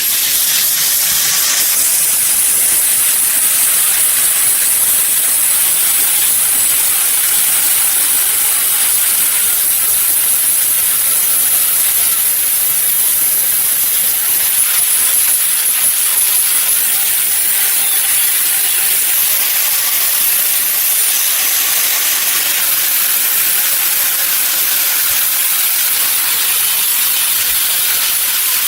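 A loud, steady, high-pitched hiss that starts suddenly and runs on without a break.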